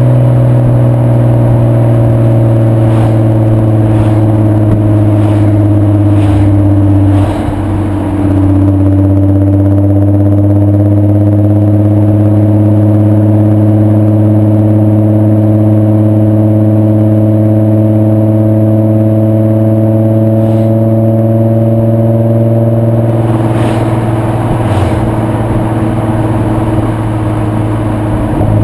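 2.8-litre VR6 24-valve engine of a VW Bora/Jetta mk4 running through a Milltek non-resonated exhaust, a steady drone while driving with the pitch drifting slowly. About seven seconds in the level dips briefly and the pitch steps, as at a gear change or throttle lift.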